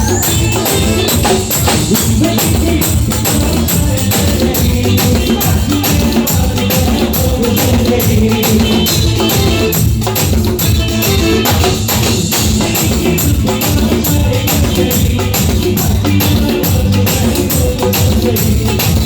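Live band music without vocals: drums and percussion keep a steady, fast beat with a bright tambourine-like jingle on each stroke. A rising sweep sounds right at the start.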